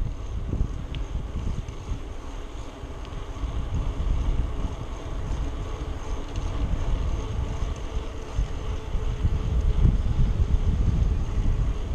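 Wind buffeting the microphone while riding a bicycle: a steady low rumble.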